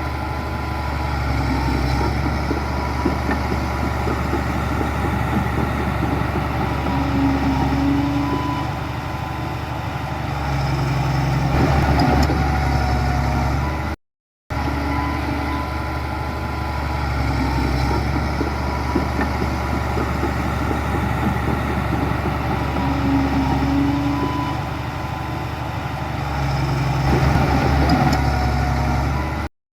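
Heavy diesel engine of earthmoving machinery running steadily, growing louder for a couple of seconds with a few knocks. The sound cuts out briefly about halfway through, and the same stretch then plays over again.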